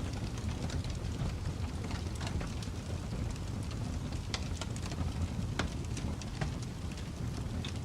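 Fireplace fire crackling: irregular sharp pops and snaps over a steady low rumble of burning, with a couple of louder pops around the middle.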